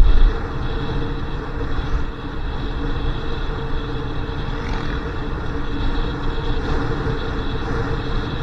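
Motorcycle engine running at a steady speed while riding, with wind rumbling on the microphone and a low buffet just at the start.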